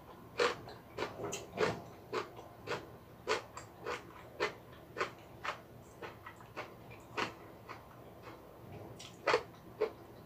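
Close-miked chewing of food with wet lip smacks and mouth clicks, about one or two a second at an uneven pace, the loudest near the end.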